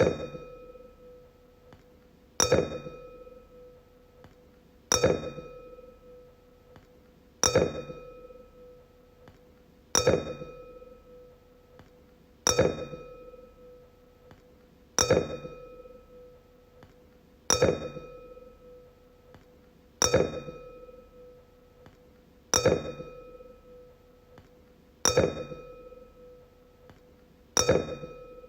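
Wine glass tapped and left to ring, about every two and a half seconds: each tap is a sudden clink followed by a clear, bell-like tone with higher overtones that slowly fades.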